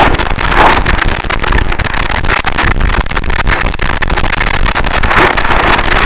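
Harsh noise wall: a loud, unchanging wall of distorted static with dense crackling and slow swells in the middle range.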